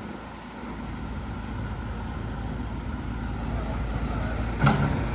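Motor vehicle engine rumble, growing steadily louder, with a single sharp knock near the end.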